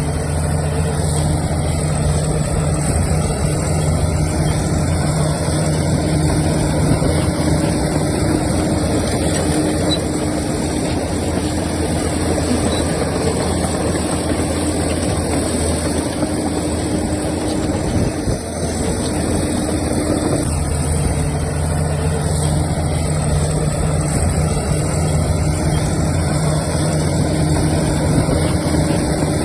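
Heavy earthmoving machine's diesel engine running at a steady pitch; the engine note drops away briefly about two-thirds of the way through, then picks up again.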